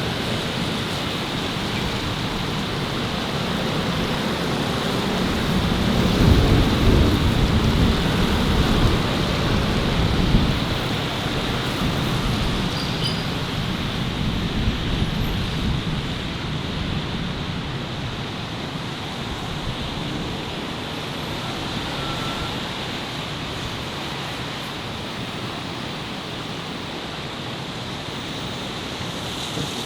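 Steady city street traffic noise, with a vehicle passing close by and swelling louder about six seconds in before fading back into the general traffic.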